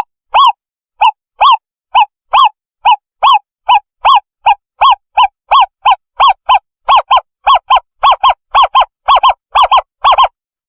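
Owl lure call: a series of short, clear hoots that rise and fall in pitch, quickening from about two to about four a second.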